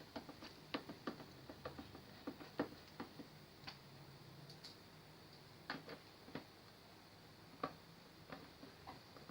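Irregular light clicks and taps of small parts and tools being handled on a TV under repair. They come several a second at first and sparser later, with no steady rhythm.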